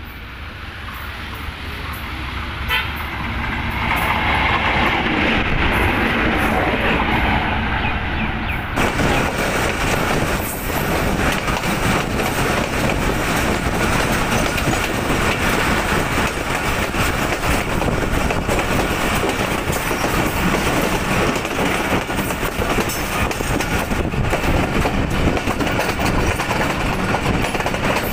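Diesel passenger train approaching, growing louder, with a horn-like sound over its run-up. About nine seconds in this switches abruptly to the steady rumble and wheel clatter of the moving train, heard from an open carriage door.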